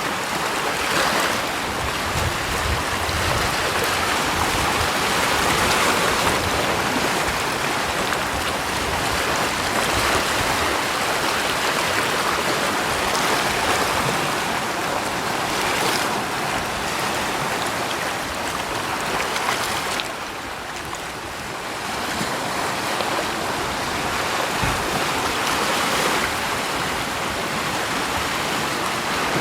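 Rushing water, a steady hiss that swells and eases, with a brief lull about two thirds of the way through.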